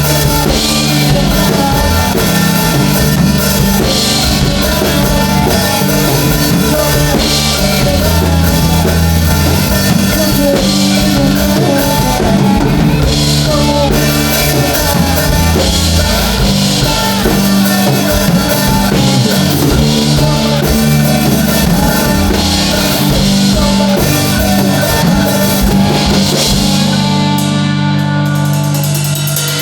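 Rock band music with a drum kit and guitars playing steadily; near the end the cymbals drop away.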